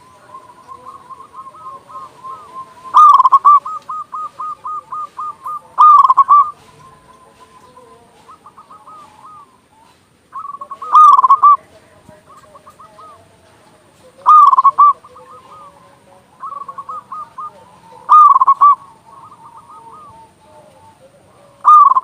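Zebra doves (perkutut) cooing: loud phrases of quick, staccato coos every three to four seconds, with fainter rapid runs of coos between them.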